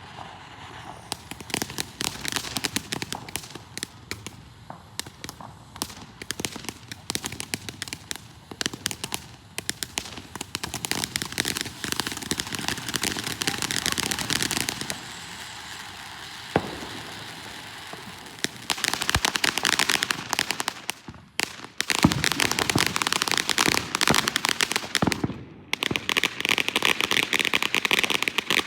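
Consumer fireworks crackling and popping in dense rapid volleys, broken by a few short lulls, with one sharp crack partway through and a denser, brighter stretch of crackling near the end.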